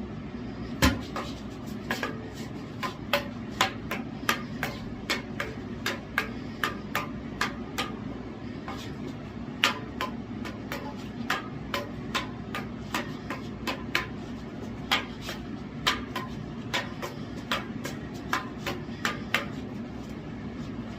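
Devil sticks being played: the hand sticks tap the centre stick in a quick, uneven run of sharp clicks, about two to three a second, over a steady low background hum.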